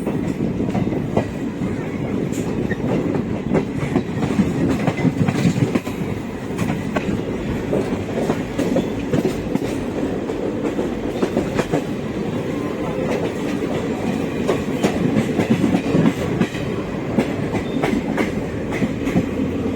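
Passenger train coaches running at speed, a steady rumble with the wheels clicking over rail joints throughout.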